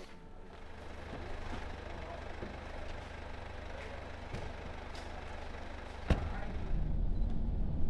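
Car engine idling steadily, with a sharp knock about six seconds in, after which a louder low rumble sets in.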